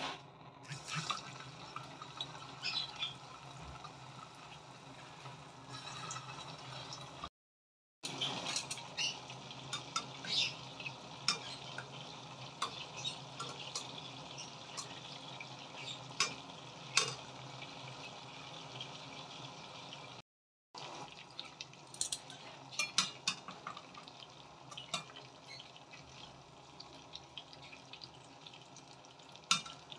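Coated pork fillet pieces frying in hot oil in a stainless steel pot: a steady sizzle with frequent crackles and pops, and a spatula scraping and clinking against the pot. The sound cuts out briefly twice.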